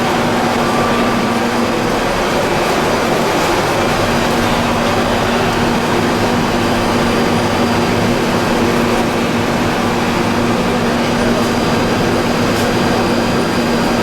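Machinery of a plastic pelletizing line running steadily: a loud, even mechanical drone with a steady low hum.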